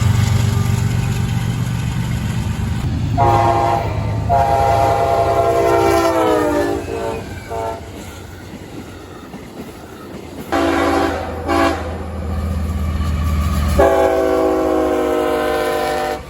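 Diesel locomotive air horn sounding a chord in several blasts over the low rumble of the locomotive's engine. A long blast drops in pitch as it goes past, then come two short blasts and a final long one.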